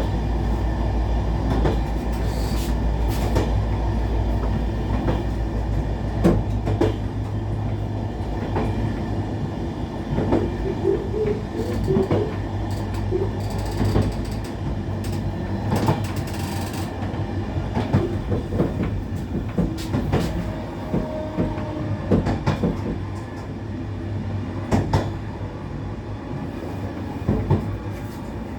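Passenger train running, heard from inside the carriage: a steady rumble with irregular clicks and rattles from the wheels on the track. A low hum fades out about eight seconds in.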